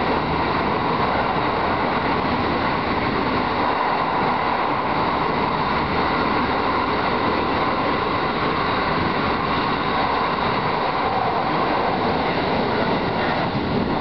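Electric commuter train running at speed through a tunnel, heard from the driver's cab: a steady, unbroken noise of wheels and running gear on the rails.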